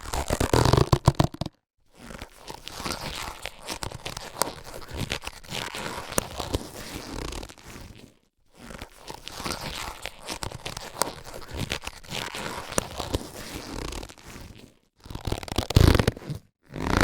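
Latex surgical gloves being handled and rubbed, a crinkly rustling run with small clicks. Short pauses break it up, with louder bursts at the start and near the end.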